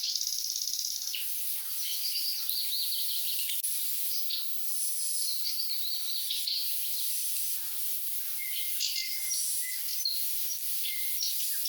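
Thrush nightingales singing: phrase after phrase of rapid, rattling trills and clear whistles, with short pauses between the phrases.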